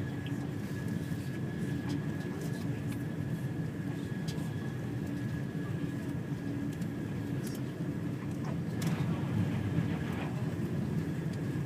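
Eurostar Class 373 high-speed train running at speed, heard from inside the passenger carriage: a steady rumble with a thin steady whine above it, growing a little louder about nine seconds in.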